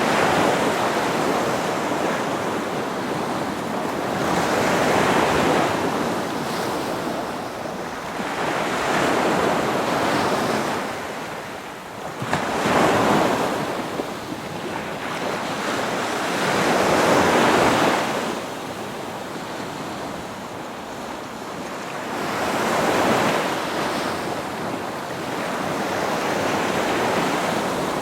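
Sea water rushing and splashing along a moving sailboat's hull, with wind on the microphone, swelling and easing every four or five seconds as the boat meets the waves.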